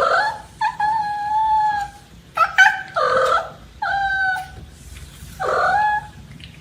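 A cat meowing over and over, about six drawn-out calls with one long steady one near the start.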